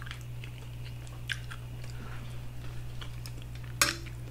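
Close-miked mouth sounds of a person chewing food: scattered soft wet clicks and smacks, with one sharper smack near the end. A steady low electrical hum sits underneath.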